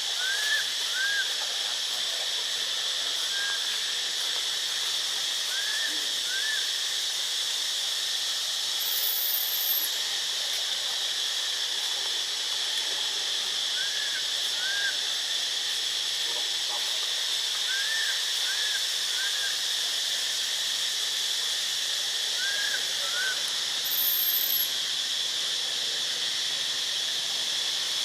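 Steady high hiss with short squeaky chirps, mostly in pairs, every few seconds, and two faint very high falling whistles.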